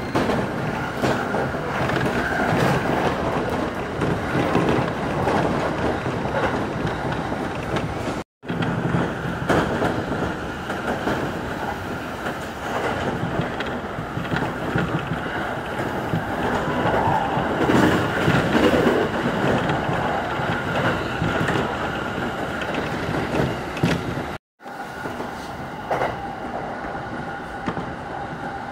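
Train running at speed, heard from inside the carriage: a steady rumble of wheels on rail, with occasional clicks over the rail joints. The sound breaks off for an instant twice, about eight seconds in and again near the end.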